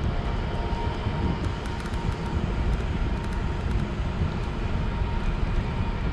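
Wind rumbling on the microphone of a moving bike: a steady, fairly loud low rumble with no distinct events.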